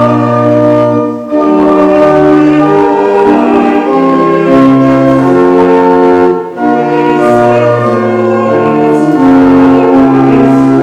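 Church organ playing slow, sustained chords, with short breaks between phrases about a second in and again about six and a half seconds in.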